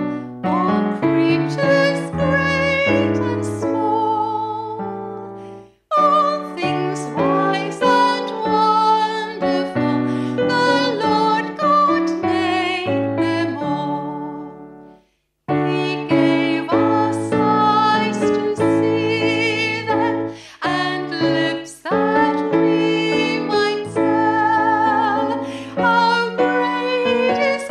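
Piano music with a wavering melody line above the chords, stopping briefly twice, about six and fifteen seconds in.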